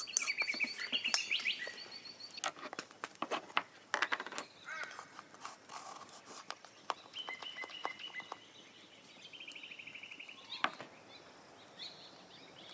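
Wild birds calling with rapid trills and chirps, in several bouts, over scattered sharp clicks and taps that are loudest in the first few seconds.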